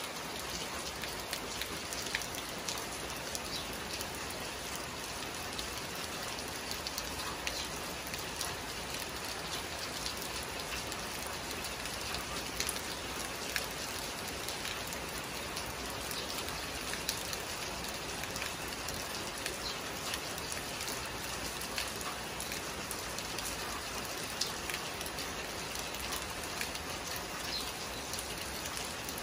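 Steady rain falling: an even hiss with many scattered sharp ticks of individual drops striking nearby surfaces.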